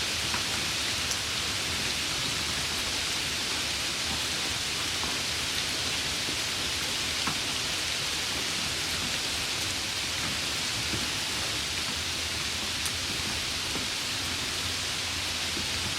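Steady rain falling on a surface: an even hiss with a few individual drops ticking through it.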